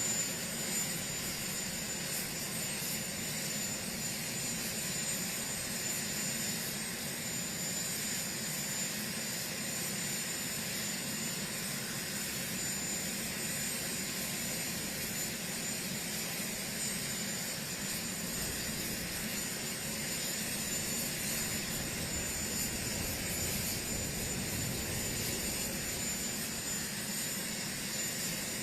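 Military transport helicopter's turbine engines and rotors running steadily, with a constant high whine over the engine noise.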